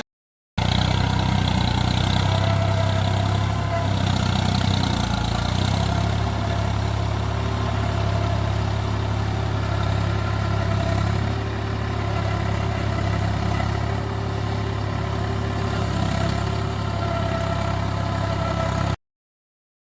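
Tractor engine running steadily with an even low hum, cutting off abruptly near the end.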